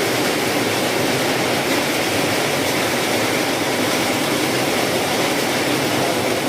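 Heavy rain and strong wind of a storm, a loud, steady, dense rushing noise without let-up.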